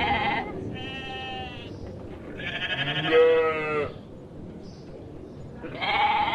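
Sheep bleating: a series of quavering bleats, one after another, with a lower, longer bleat in the middle.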